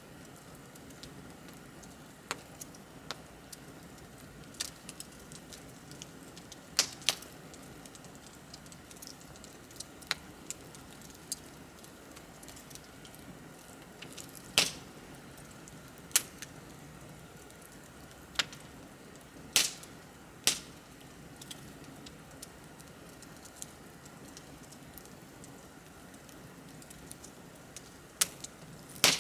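Wood fire crackling: a steady soft hiss from the burning logs, broken by irregular sharp pops and snaps, a handful of them much louder than the rest.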